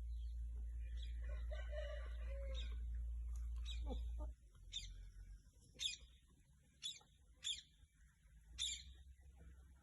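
Birds chirping: a handful of short, sharp high calls spaced about a second apart in the second half. Before them a low steady hum runs and cuts off suddenly a little over four seconds in.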